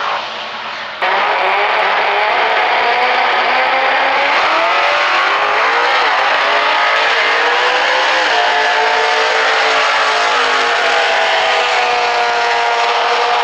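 Valiant coupe's V8 drag engine running hard at high revs. It comes in suddenly about a second in, and its pitch dips and climbs again a few times.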